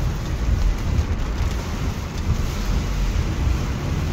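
Heavy rain and wind: a steady hiss over a low, fluctuating rumble.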